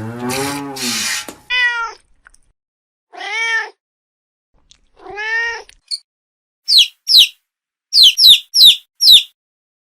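A cat meowing: a low, rough call at the start, then three separate meows, each rising and falling in pitch. From about seven seconds in, a small bird gives six quick, sharply falling high chirps.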